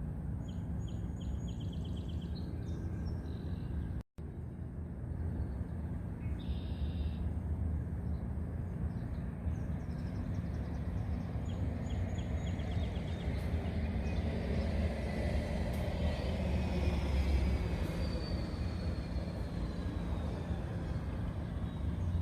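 Outdoor city ambience: a steady low rumble of traffic with small birds chirping in short repeated phrases. Past the middle a vehicle passes, swelling a little, with a faint slowly falling whine.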